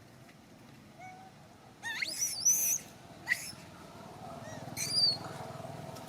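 High-pitched squealing calls of a baby monkey: a rising squeal about two seconds in, a short cry a second later, and another call near the end.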